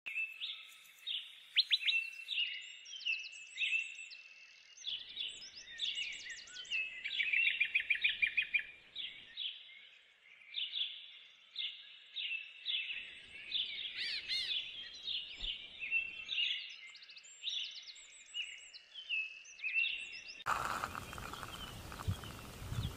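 Several small birds chirping and twittering with quick, repeated high notes and a few higher trills. About three seconds before the end, a steady rushing noise comes in underneath.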